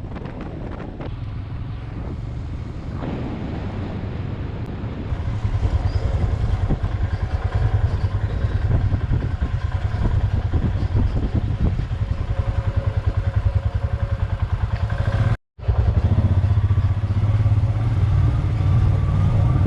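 Royal Enfield Himalayan's single-cylinder engine running steadily while riding, with a low pulsing note; the sound drops out briefly about three-quarters of the way through.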